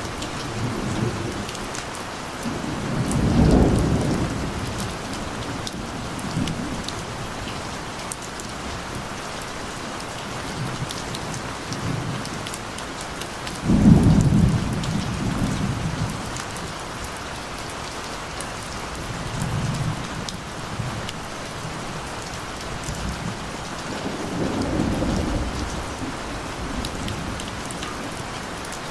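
Steady rain falling, with drops pattering on a surface, and rolls of distant thunder rumbling low every several seconds. The loudest thunder roll breaks in suddenly about halfway through, with weaker rumbles near the start and near the end.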